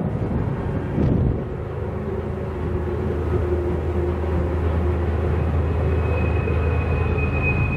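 Freight train rolling past with a steady low rumble. About six seconds in, a high steady squeal joins it, like wheels grinding on a tight curve.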